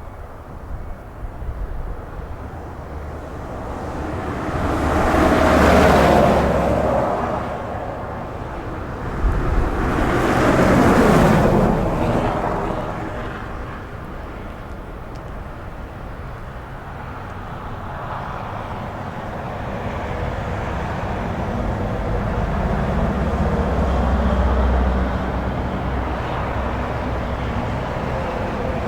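Road vehicles on a snowy highway passing by: two go past one after the other, about six and eleven seconds in, each rising and fading. Later a lower engine sound swells slowly and fades near the end.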